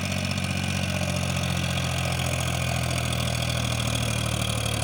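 Tractor's diesel engine running steadily with a low, even note while pulling a heavy double load.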